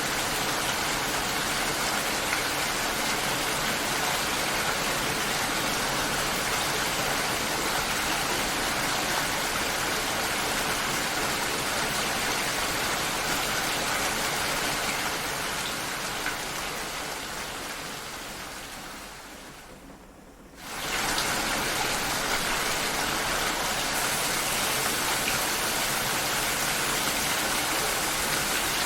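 Steady heavy rain hiss. It fades down over several seconds, then comes back abruptly at full strength about two-thirds of the way through.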